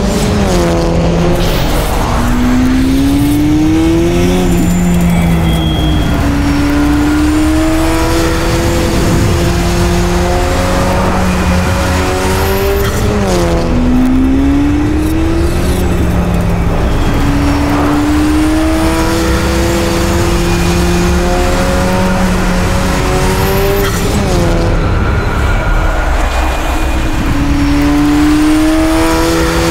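Cupra car's engine accelerating hard through the gears. Its pitch climbs over a couple of seconds, drops at each shift and climbs again, over and over, with a steady low hum underneath.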